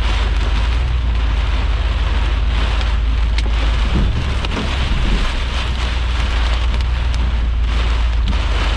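Heavy rain beating on a vehicle, with wind making a deep, steady rumble and a few sharper single hits.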